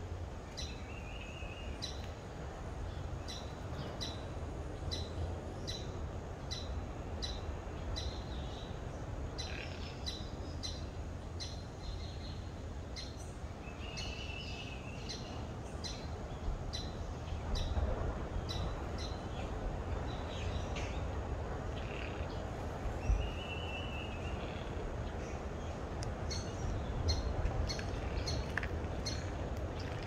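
Birds calling in the trees: a short sharp note repeated about once a second, thinning out after the first dozen seconds, with an arching whistled call every ten seconds or so, over a steady low rumble of background noise.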